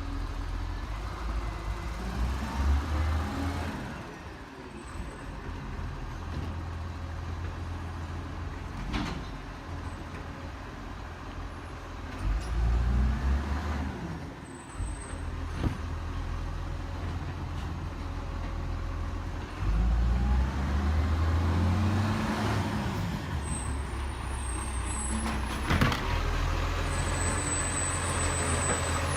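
Garbage truck's diesel engine running, its pitch rising and falling three times as it revs, with a couple of sharp knocks in between.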